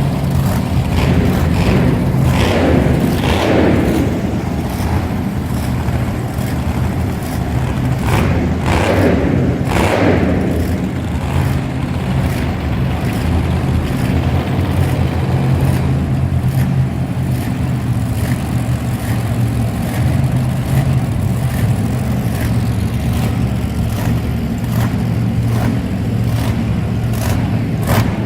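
Monster truck engines running at a steady loud drone, with two surges of revving that rise and fall in pitch within the first ten seconds.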